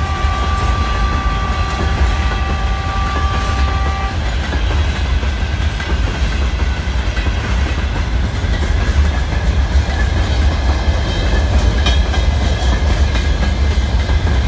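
Loaded freight train rolling past at speed: a loud continuous low rumble and clatter of wagon wheels on the rails. A steady high-pitched tone sounds over it and stops about four seconds in.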